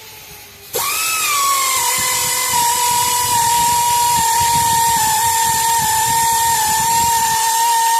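Power tool motor spinning at a steady high-pitched whine, starting abruptly under a second in with a brief upward swoop before settling, with a hiss over it.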